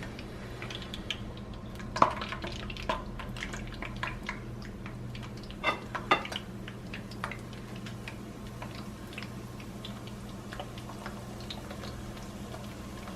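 Tortillas being worked in a frying pan of hot oil: scattered light clicks and knocks of a utensil against the pan, a few sharper ones about two and six seconds in, over a steady low hum.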